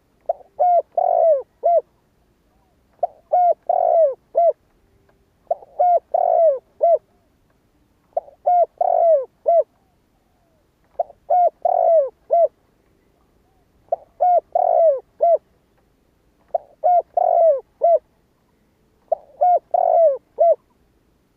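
Spotted dove cooing: eight repeated phrases, one about every three seconds, each a quick run of about five low falling coos with the middle notes loudest. It is the dove's cooing song, used here as a decoy call to draw wild spotted doves.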